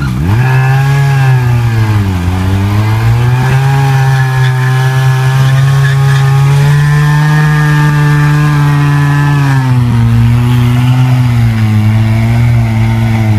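Phoenix R175 sport motorcycle engine held at high revs during a stationary burnout, the rear tyre spinning and smoking on the asphalt. The revs dip briefly about two seconds in, then hold steady and settle a little lower after about ten seconds.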